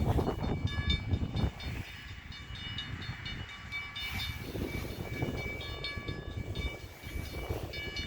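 CN freight train's diesel locomotives idling at a standstill. Over the low rumble a crossing bell rings in quick, repeated strokes. The rumble is loudest in the first second or so and then eases.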